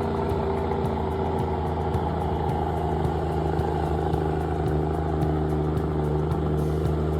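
Heavy truck's diesel engine running steadily under load, with a light, rapid, regular clicking over it.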